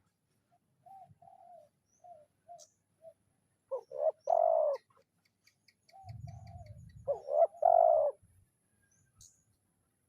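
Spotted dove cooing: a few soft short coos, then two loud full coo phrases, about four and seven and a half seconds in. This is its call to a rival dove.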